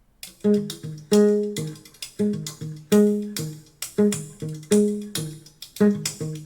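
Instrumental intro of a recorded song played back over hi-fi speakers and picked up by a room microphone: plucked string notes with sharp attacks in a steady rhythm, starting a moment in.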